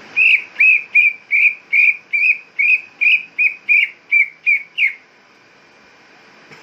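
Greater green leafbird (cucak ijo) calling in an agitated series of about thirteen short, clear repeated notes, roughly two and a half a second, for about five seconds before stopping.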